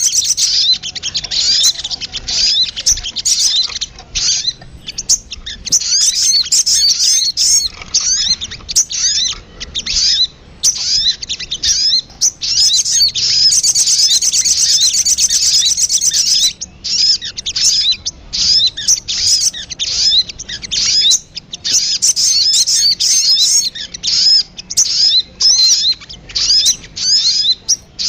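Recorded lure call of the sogon (sogok ontong), a small songbird: loud, rapid, high-pitched chirping and twittering trills, broken by brief pauses every few seconds.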